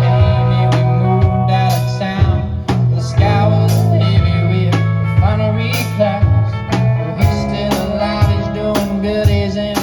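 Live band playing a blues-rock song, with a steady drum beat and cymbals over held bass notes and guitar.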